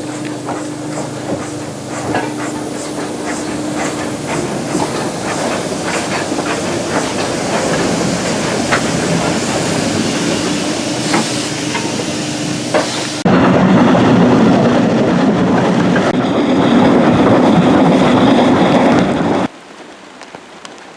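Hunslet 0-6-0ST saddle-tank steam locomotive working a train, a steady hum with steam hiss and clicking from the wheels. About two-thirds of the way through it cuts abruptly to a louder hissing noise, then near the end drops suddenly to a much quieter background.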